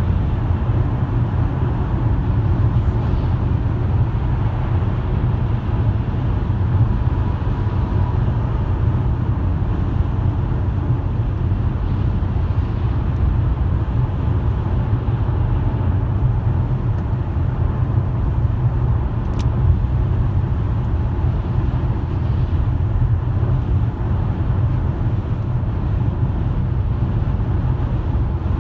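Steady low rumble of a car driving, engine and tyre noise without change, with one brief sharp click about twenty seconds in.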